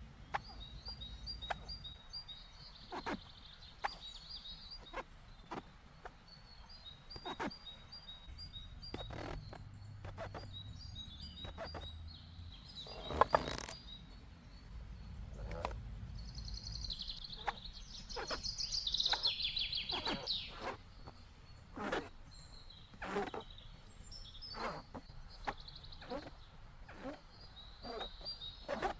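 Birds singing in woodland: short runs of quick repeated high notes come and go, with a louder, fuller song phrase about two thirds of the way through. Scattered clicks and knocks sound throughout, with one sharp knock near the middle.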